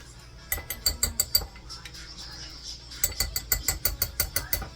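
A metal kitchen utensil clinking rapidly against a dish in two runs: a short run of about six clinks, then a longer run of about a dozen at roughly eight a second.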